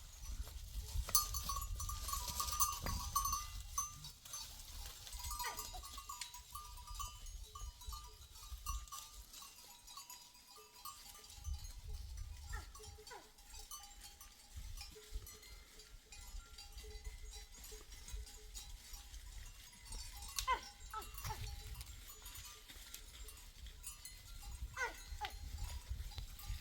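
A flock of sheep and goats with bells clanking on and off throughout, and now and then a short bleat. A steady low rumble runs underneath.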